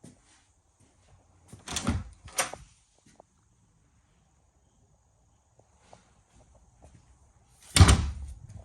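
Doors being shut: two knocks about two seconds in, then a louder thump near the end.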